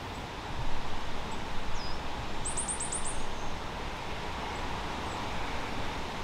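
A small bird gives a quick run of about six high chirps a couple of seconds in, after one short falling note, over a steady background hiss of open woodland.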